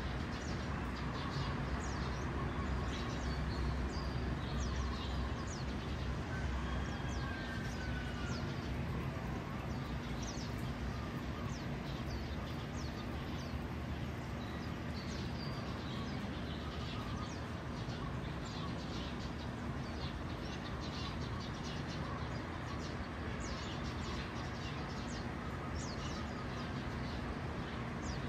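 Small birds chirping: many short, high chirps throughout, with one longer whistle about seven seconds in, over a steady low hum.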